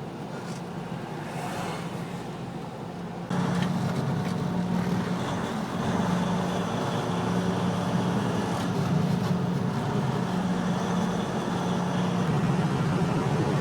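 Semi truck's diesel engine and road noise heard from inside the cab while cruising on the highway: a steady low drone with a hum. It gets noticeably louder about three seconds in.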